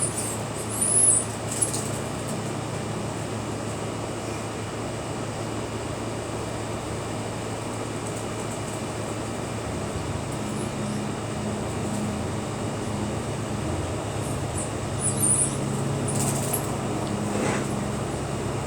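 Wind blowing steadily, an even rushing noise. A low steady hum joins about halfway through, and a few brief high chirps come near the start and again near the end.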